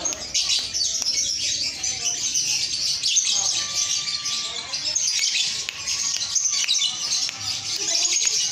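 Male lovebird chattering: a continuous stream of rapid, shrill, squeaky notes with no pauses.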